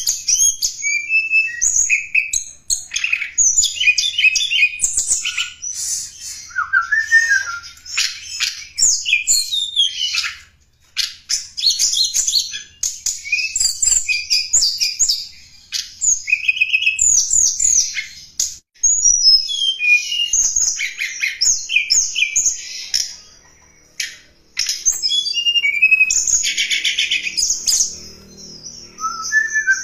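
Tledekan gunung songbird singing: fast, high-pitched chattering phrases of chirps, trills and short whistled glides, broken by brief pauses about 11 s in, near 19 s and around 23–24 s.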